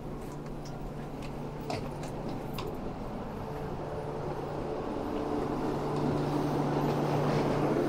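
Steady low hum of a KTX high-speed train standing at the station, growing louder toward the end, with a few light clicks in the first seconds.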